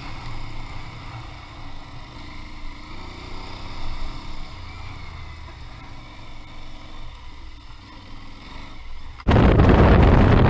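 Motorcycle engine running at low speed with a low rumble and a brief change in pitch. About nine seconds in, loud wind buffeting on the microphone cuts in suddenly and drowns it out.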